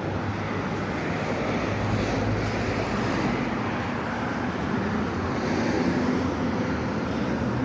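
Steady road traffic noise on a city street, cars passing in a continuous even rumble.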